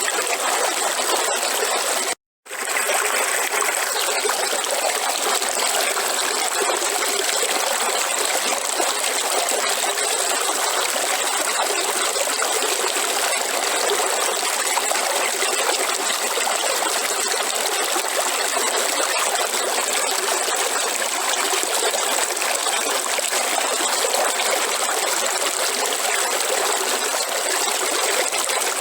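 Waterfall rushing in a steady, even wash of falling water. The sound cuts out completely for an instant about two seconds in, then resumes unchanged.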